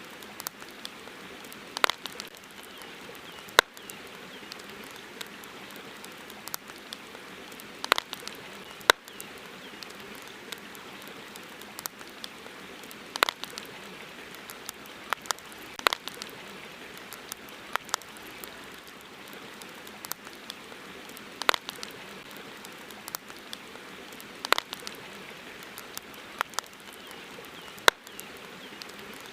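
Wood campfire crackling: irregular sharp pops and snaps, a few of them loud, over a steady soft hiss.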